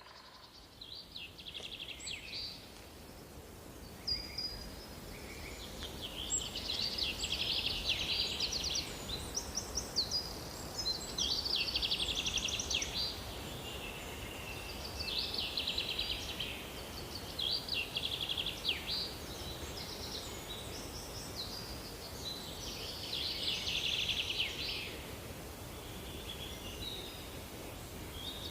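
Birds singing in high, trilled phrases that come every few seconds over a steady low background noise, fading in at the start.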